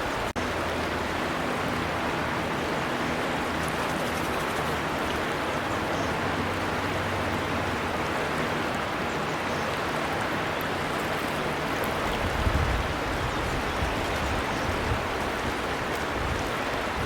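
River water flowing steadily, a continuous rushing of water. A brief dropout cuts the sound a moment after the start, and a low rumble comes and goes in the last few seconds.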